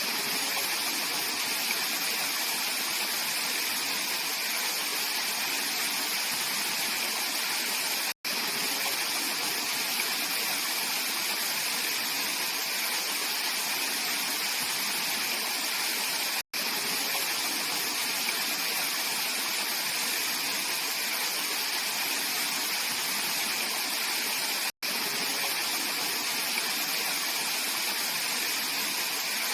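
Mountain stream rushing steadily over rocks, an even splashing hiss. Three split-second gaps about eight seconds apart break it.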